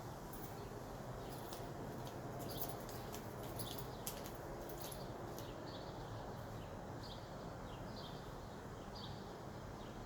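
Short high chirps, like small birds calling, repeating about once a second over a low steady rumble, with a cluster of sharp clicks in the first few seconds.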